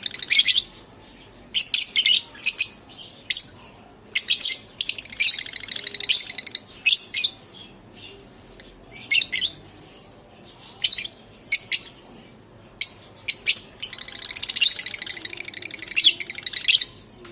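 Lovebirds chattering: rapid runs of high, twittering chirps lasting a second or two each, with short single chirps in between.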